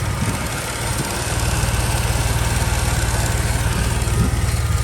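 Saab 9-3's 2.8-litre turbocharged V6 running steadily, with fast, even exhaust pulses. It is a spare engine, freshly swapped in and just started after sitting for three to four years.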